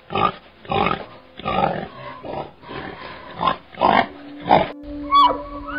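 Domestic pigs grunting, about eight short rough grunts in an uneven rhythm.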